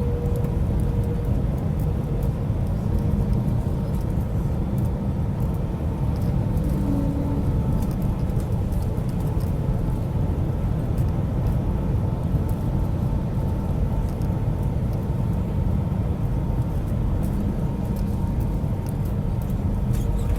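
Steady low roar of an airliner on approach to land in strong wind, with a few faint steady tones above it.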